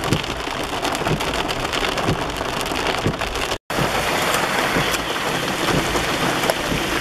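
Heavy rain falling, a dense steady hiss full of individual drop impacts. The sound cuts out for a moment about halfway through.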